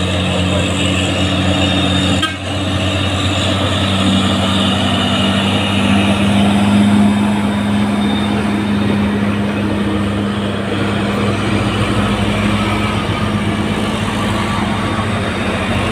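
Diesel engines of heavy trailer trucks labouring uphill in a low gear: a loud, steady drone that rises slightly in pitch partway through.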